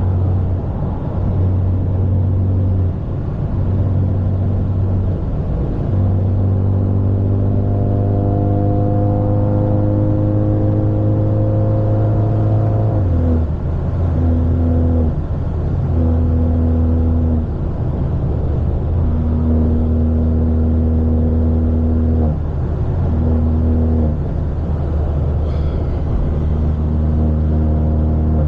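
Straight-piped, catless BMW 530's turbocharged four-cylinder engine droning loudly from inside the cabin while driving. The pitch climbs slowly for several seconds midway as it pulls in one gear, then drops and settles into steadier cruising.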